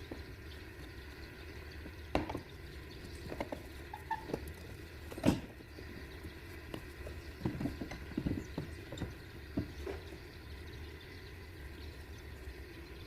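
Scattered knocks and clicks of tools and metal parts being handled during timing belt work, the sharpest about five seconds in and a run of them a few seconds later, over a steady low hum.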